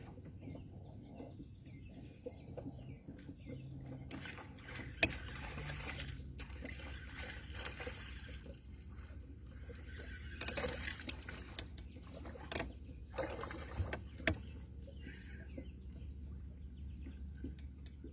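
Water splashing and lapping around a small boat, with a low steady rumble and a few sharp knocks and clicks, the loudest about five seconds in.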